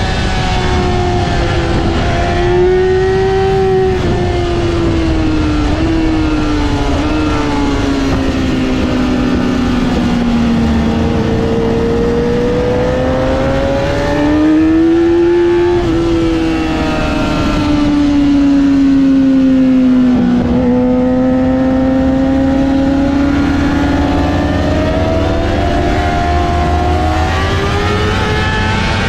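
Yamaha R6's inline-four engine at high revs on a racetrack, its pitch climbing under acceleration and sinking as it slows for corners, several times over. There are a few sudden drops in pitch at gear changes.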